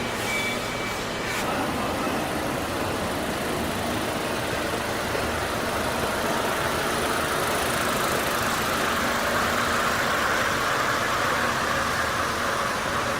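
Engine running steadily, a continuous mechanical noise that grows slightly louder and brighter over the second half. A faint high tone sounds in the first second and stops.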